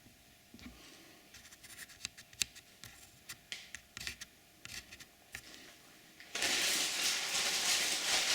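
Hand handling noises: scattered light clicks and scratches, then from about six seconds in a louder, steady rushing noise lasting a couple of seconds.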